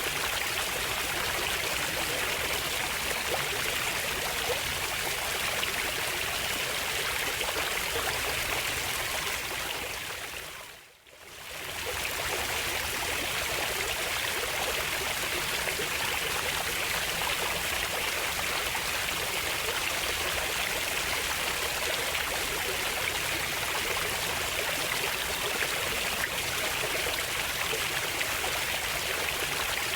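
Steady flowing water, an even rush. About ten seconds in it fades almost to silence, then swells back within a second, like a crossfade where the recording loops.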